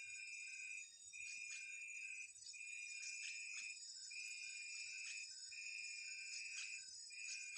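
Steady high-pitched insect chorus, with a repeating pulsed call of about a second at a time, six times with short gaps between, and short sharp chirps scattered over it.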